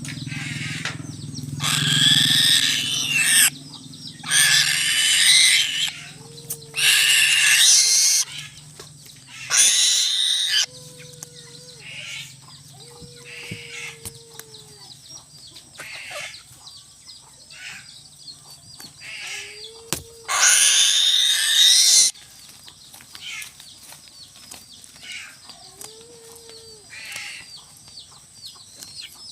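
Harsh bird squawks in loud bursts of one to two seconds, about five of them, with short low notes between.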